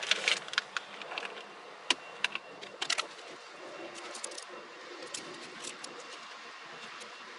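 Scattered sharp clicks and light taps of hand work on wiring at the car's OBD2 plug, busiest in the first few seconds, over a faint steady high tone.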